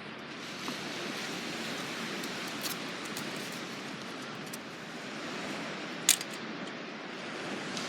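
Surf washing on a beach as a steady hiss, with a few light clicks and one sharp click about six seconds in.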